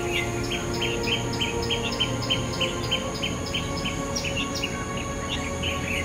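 A small bird chirping in a fast, even run of short high chirps, about four a second, that thins out near the end.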